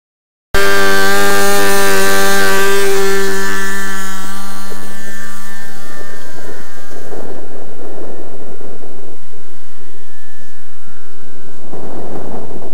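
Model aircraft two-stroke glow engine, an ASP .61, running steadily at high revs. It cuts in suddenly about half a second in. From about the middle, gusty wind noise on the microphone partly covers the engine.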